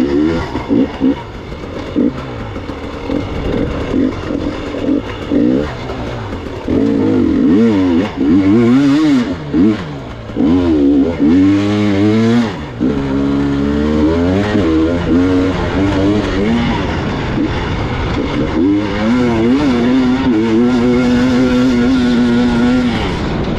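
Gas Gas EX 300 two-stroke enduro motorcycle engine revving up and down as it is ridden, with many quick rises and falls in pitch and brief throttle cuts through the first half, then holding a steadier pitch over the last several seconds.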